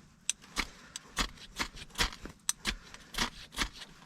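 Ferrocerium fire-starter rod being struck with a scraper in repeated short, sharp strokes, about three to four a second, trying to throw sparks onto tinder that does not catch.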